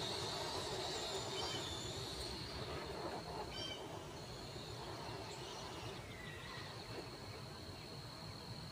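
Outdoor ambience: a steady high-pitched insect drone, with a short bird chirp about three and a half seconds in.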